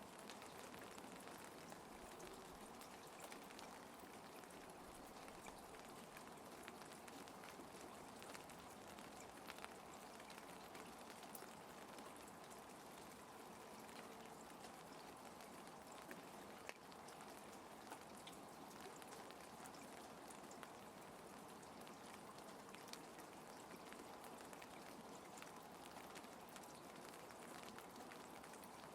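Gentle, steady rain falling, with scattered individual drops ticking.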